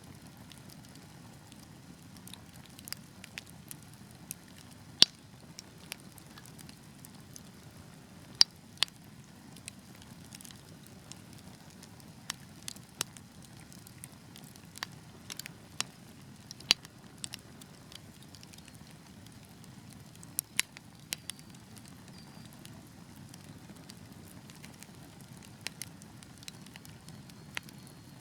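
Wood fire burning: irregular sharp crackles and pops over a low, steady rush of flame, with a few louder pops and a sparser stretch a little past the middle.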